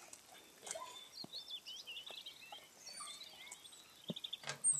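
Small birds chirping and twittering in quick, high, wiggly notes, with a few light knocks and a louder knock near the end.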